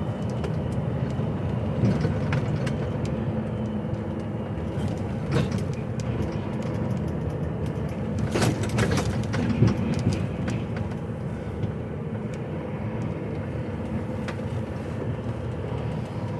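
HGV lorry's diesel engine running with steady road and cab noise, heard from inside the cab. A few short knocks and rattles come through, the loudest cluster a little past the middle.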